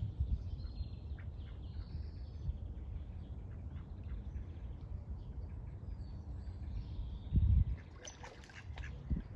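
Birds chirping and calling, many short high notes, over a steady low rumble, with a brief louder low thump about three-quarters of the way through.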